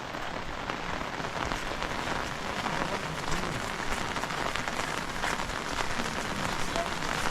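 Steady rain falling, an even hiss with many individual drops ticking.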